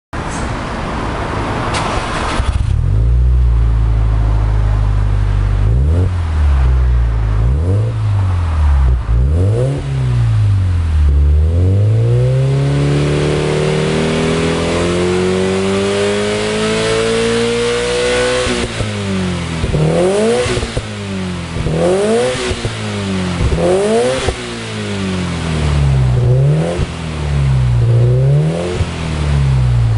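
Subaru Impreza WRX STI (GVB) turbocharged boxer four breathing through a Kakimoto Regu.06&R aftermarket exhaust, revved while standing still. A few short throttle blips come first, then a long steady climb in revs that drops back, then quick rev blips about every second and a half.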